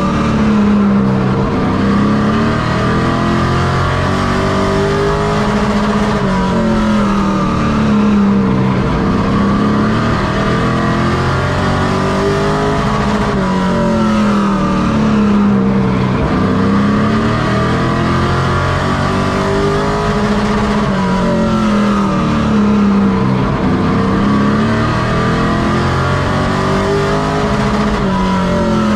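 Race truck engine running hard at racing speed, its pitch rising and falling in a repeating cycle every few seconds as it accelerates and lifts around a short oval.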